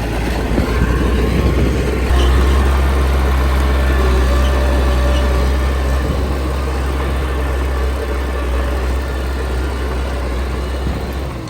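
Heavy diesel engine of earthmoving machinery running steadily with a deep, even drone, easing off near the end.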